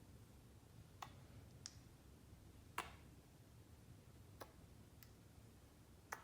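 Near silence with about six faint, scattered clicks and light taps: plastic paint bottles and cups being handled.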